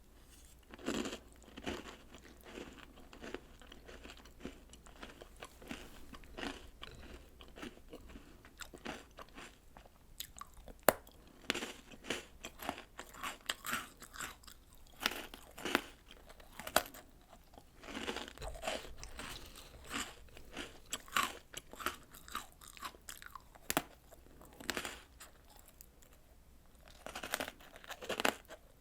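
Close-up crunching and chewing of chocolate snacks and cereal eaten from a bowl of milk: an irregular run of crisp bites and chews with brief pauses.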